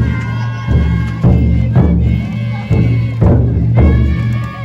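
Futon daiko float's taiko drum struck in a steady beat, about two strokes a second. Voices sing long held notes over the drumming.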